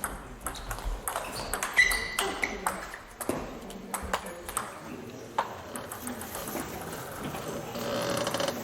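Table tennis rally: a string of sharp clicks as the plastic ball is struck by the paddles and bounces on the table, over about the first five seconds.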